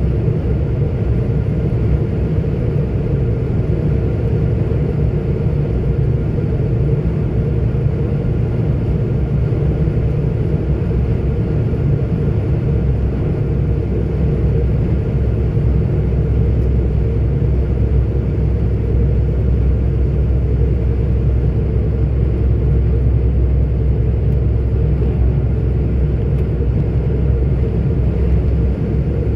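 A 44-ton articulated truck driving along: a steady low engine and road rumble that holds even throughout.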